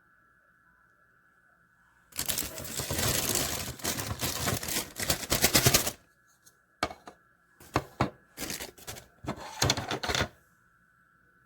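Plastic hair dryer attachment being handled: a rapid rattling clatter lasting about four seconds, then a string of separate clicks and clatters.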